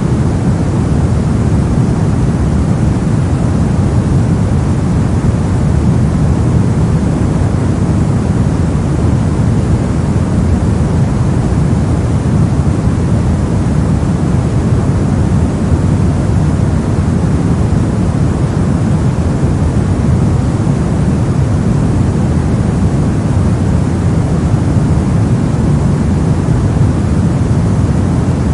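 Brown noise: a steady, unchanging deep rumble-like hiss, strongest in the low end and fading toward the highs.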